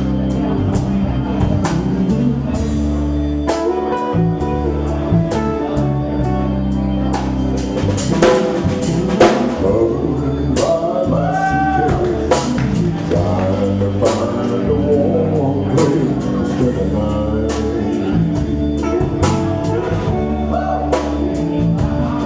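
A live blues band plays a slow instrumental intro: a drum kit keeps time under sustained bass notes while a lead instrument plays a line with bent notes.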